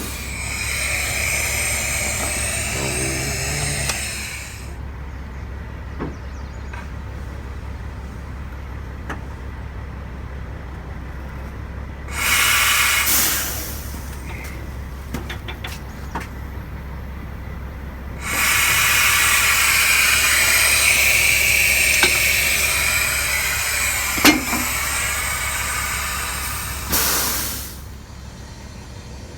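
Diesel engine idling steadily under three loud bursts of hissing air that start and stop sharply, the last lasting about nine seconds.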